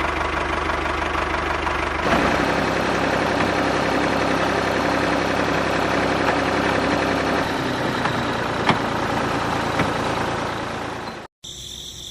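A motor running steadily, its note shifting about two seconds in, then cutting off suddenly near the end.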